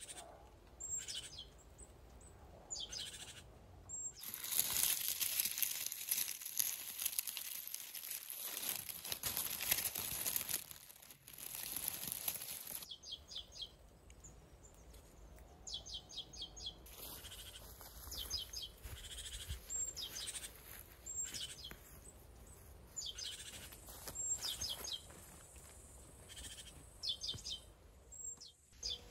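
Small birds chirping in short, quickly repeated calls, again and again, over outdoor ambience. A loud, steady high hiss runs from about four seconds in to about thirteen seconds.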